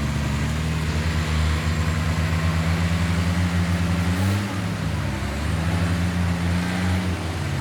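Heavy diesel engine of earthmoving machinery working, its pitch dipping briefly about four seconds in and then coming back up.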